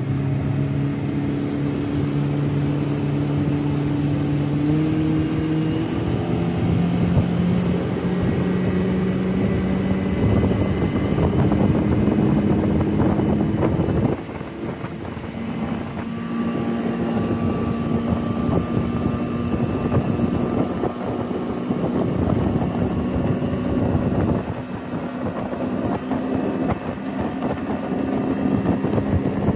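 Mercury outboard motor driving a fishing boat at speed. The engine pitch climbs over the first several seconds as it opens up, then holds steady, with brief dips in loudness about halfway through and again near the end.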